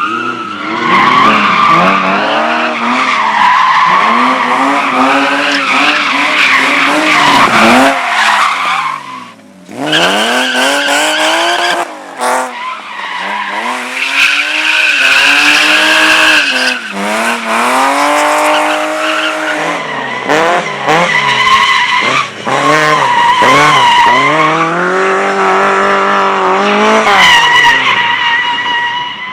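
A competition car's engine is revved hard through a slalom run, its pitch climbing and dropping again and again with quick lifts off the throttle, while the tyres squeal through the turns.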